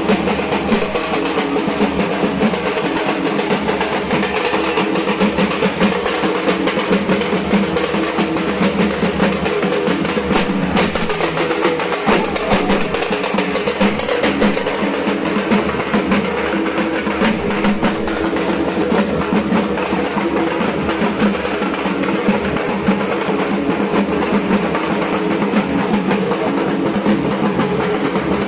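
Dhak, the Bengali barrel drum, played with sticks in a fast, dense, unbroken roll of strokes.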